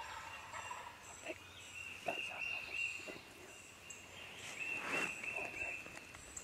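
Eastern wild turkey gobblers gobbling: a few gobbles, the strongest about five seconds in.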